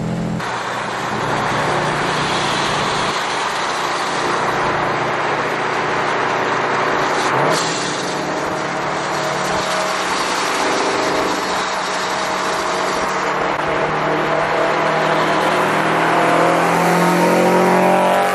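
Supercharged Toyota GT86's flat-four engine running under way through cat-less unequal-length headers and a loud straight-through exhaust, a steady rumble. There is a brief sharp crack about seven and a half seconds in. Near the end the engine note climbs as it accelerates.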